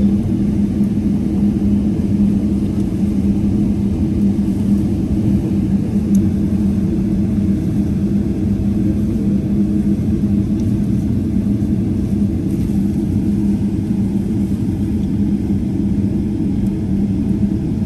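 Steady rumble inside a Boeing 777 airliner cabin, with a strong low drone that holds one pitch.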